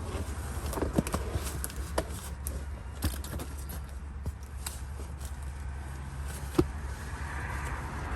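Things being handled while rummaging through a box of purses and accessories: five or so sharp separate clicks and knocks over a low steady rumble.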